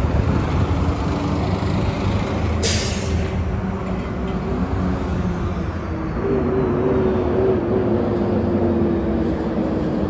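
Heavy road traffic with a transit bus passing: a steady engine and tyre rumble, a short sharp air hiss from the brakes about two and a half seconds in, and a whine that starts about six seconds in and slowly falls in pitch.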